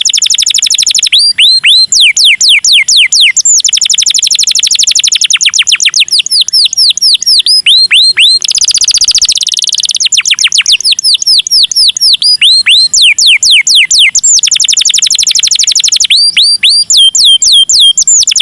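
Domestic canary singing loudly in long trills. Runs of rapidly repeated downward-sweeping whistled notes alternate with very fast, buzzy rolls, and the song switches to a new trill every second or two without pause.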